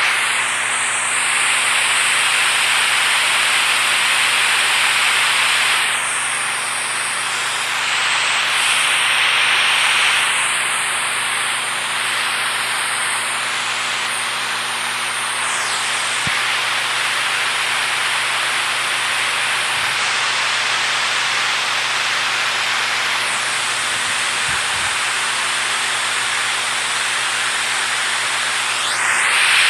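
Rushing water: a steady, dense hiss of fast-flowing or falling water and spray.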